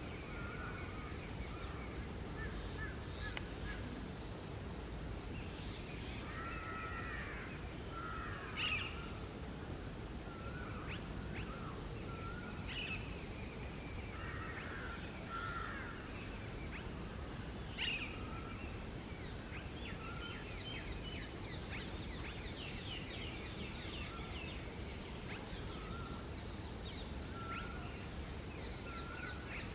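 Birds calling over a steady background hiss, among them a female Alexandrine parakeet: many short scattered notes and quick chirps, with two sharper, louder calls about 9 and 18 seconds in.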